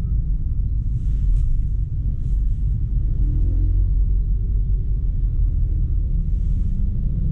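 Steady low rumble of road and wind noise from a vehicle on the move.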